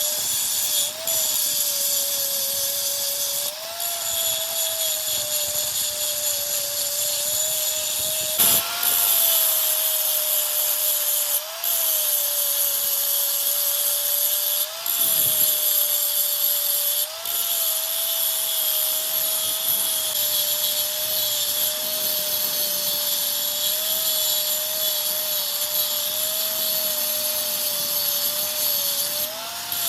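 A metalworking power tool running steadily with a strong high hiss over a steady whine. Every few seconds the sound dips briefly and the whine rises in pitch for a moment.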